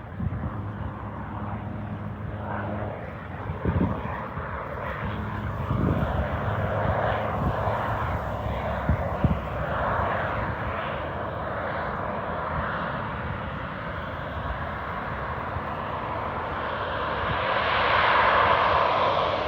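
Light floatplane's propeller engine running, growing louder until near the end, then easing slightly.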